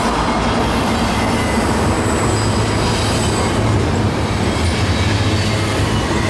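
Freight train rolling past close by: a steady, loud rumble of wheels on rail, with faint high wheel squeal.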